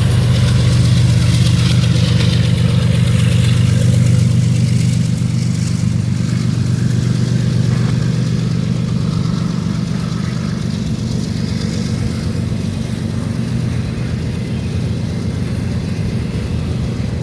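Diesel locomotive engine running steadily with a deep drone, easing slightly after about five seconds.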